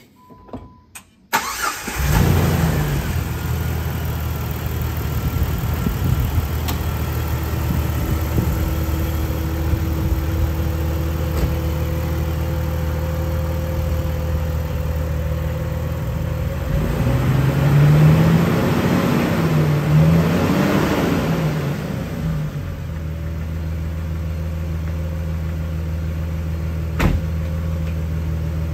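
2005 Jeep Wrangler Rubicon's 4.0-litre AMC inline-six started, catching after a brief crank about two seconds in, then idling steadily. It is revved twice in quick succession about two-thirds of the way through and settles back to idle. A single sharp click near the end.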